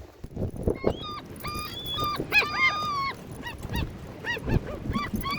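A dog whining and yipping: a quick run of short, high, rising-and-falling whines, with a couple of longer held whines in the middle.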